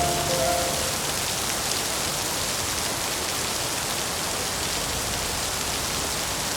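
Steady rain falling, an even hiss with no thunder. A few soft held musical notes fade out within the first second.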